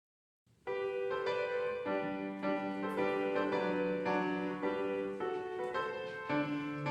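Piano playing a chordal introduction, starting about half a second in.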